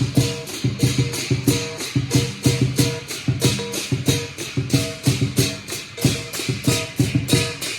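Lion dance percussion band playing: a big drum, clashing cymbals and a gong keeping a steady driving beat of about four strokes a second.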